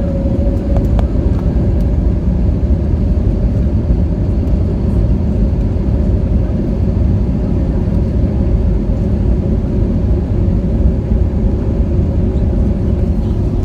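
Steady low rumble of an Airbus A320neo's engines and airflow heard inside the passenger cabin.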